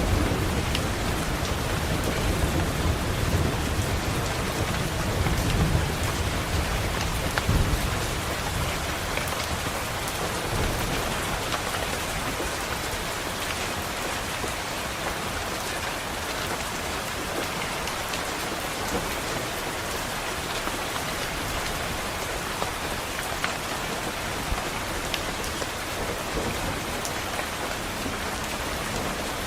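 Steady rain with a low roll of thunder rumbling through the first several seconds and dying away about eight seconds in, leaving rain alone with a few faint sharp drop ticks.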